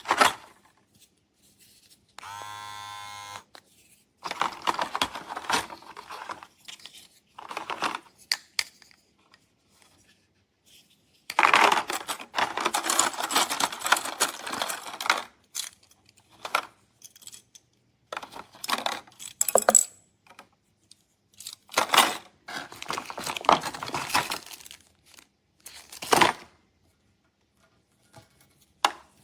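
Small plastic parts of a cordless dog grooming kit clattering and rustling as they are handled and swapped. A small electric motor from the kit buzzes steadily for about a second, a couple of seconds in.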